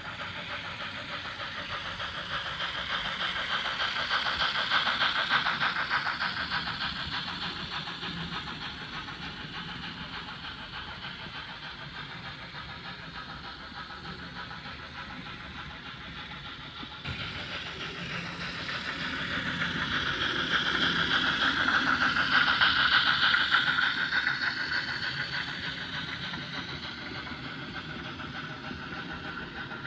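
H0 model freight train led by a Märklin class 50 steam locomotive rolling along the track with a fine rattling clatter of wheels on rails and a motor whir, growing louder as it passes close and then fading. It passes twice, the second pass beginning after an abrupt cut about 17 seconds in.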